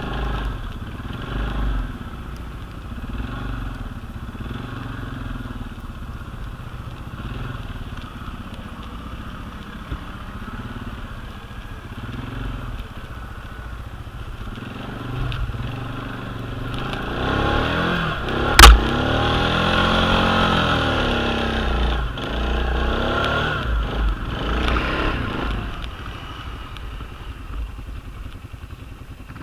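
ATV engine running on the move, its pitch wavering gently, then revving harder about halfway through with the pitch sweeping up and down several times before easing off near the end. One sharp knock sounds in the middle of the revving.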